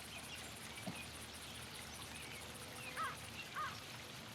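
Countryside birdsong: a bird gives short chirps twice near the end, over a faint, high, pulsing chirr, with one soft thump about a second in.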